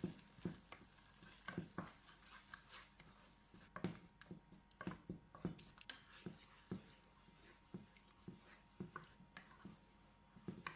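Irregular light clicks and taps of a cooking utensil against a pot or dish, roughly one or two a second, over a quiet background.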